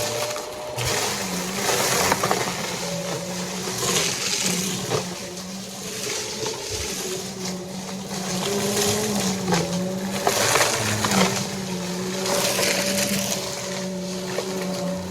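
Vacuum cleaner running while picking up a test mess of dry debris, with crackling and rattling as the debris is sucked in. Its motor drone dips in pitch briefly a few times, around the middle, as it takes on load.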